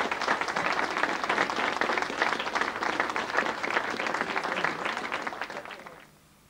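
Studio audience applauding, a dense patter of many hands clapping that fades out about six seconds in.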